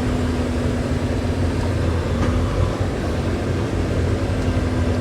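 Semi-truck's diesel engine running steadily: a low rumble with a steady hum over it.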